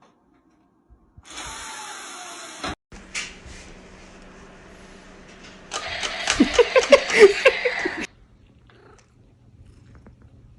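A cat calling in a rapid run of short, pitched sounds, about four a second, loudest near the middle of the stretch and cutting off abruptly. Before it comes a quieter stretch of hissing noise.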